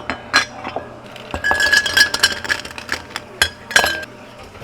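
Glassware clinking: a few sharp clinks, then a dense run of ringing clinks in the middle, and two more sharp ringing clinks near the end.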